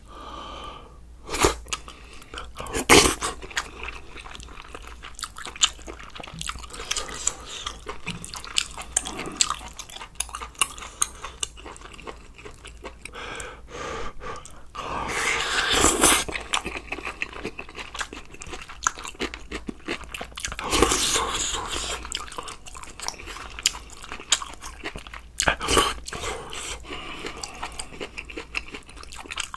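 Close-miked eating sounds: chewing and crunching of food, with sharp clicks of a spoon and chopsticks against the bowl and pot. There are louder noisy stretches about halfway and again about two-thirds through.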